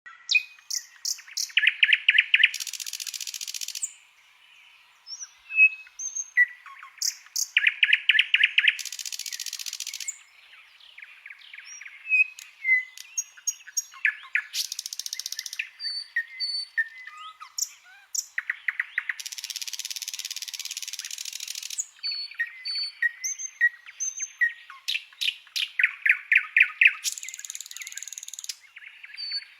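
Songbird singing a varied song of clear whistles, slurred notes and fast trills. Dense, harsh chattering phrases come back about every six seconds. This is the kind of 'masteran' song that white-rumped shamas, magpie-robins and leafbirds are trained on.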